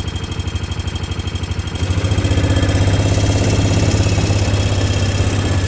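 Engine of the vehicle carrying the recorder, heard from on board as it rolls slowly, with a steady throb. It grows louder about two seconds in.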